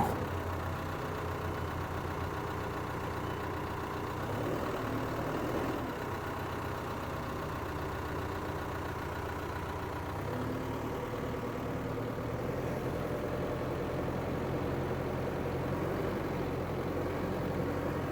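2014 John Deere 310SK backhoe loader's four-cylinder diesel engine running steadily as the machine is driven with four-wheel drive engaged, with a faint whine that wavers in pitch now and then.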